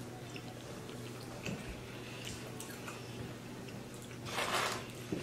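Quiet eating sounds: small wet clicks and smacks of people chewing chicken wings, over a steady low hum. A short breathy, hiss-like rush comes a little over four seconds in.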